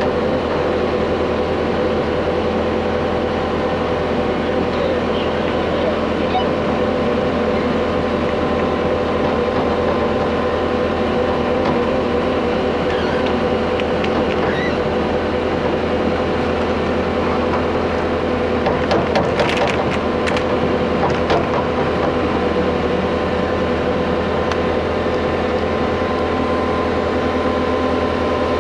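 Excavator engine running steadily with a steady whine, pulling a water line plow through the ground; a few sharp knocks about two-thirds of the way through.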